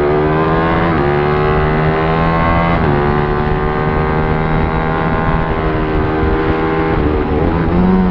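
Pit bike's small single-cylinder engine running hard and loud. Its pitch drifts and dips and recovers a few times, about a second in, around three seconds and near the end, as the throttle or gear changes.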